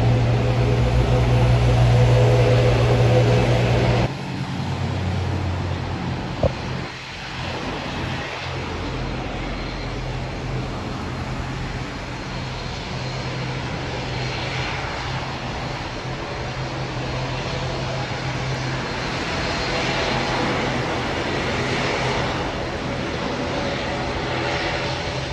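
Aircraft engine noise. A loud low hum with steady tones changes abruptly about four seconds in to a steady broad rush that swells slightly later on, with a single click shortly after the change.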